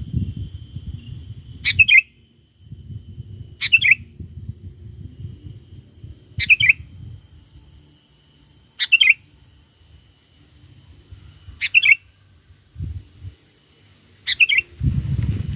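Sooty-headed bulbul giving short, bright chirping calls, six in all, about one every two and a half seconds, over a low rumble.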